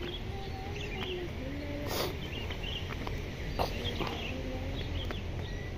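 Small birds chirping over and over against a steady low rumble, with two brief knocks in the first half.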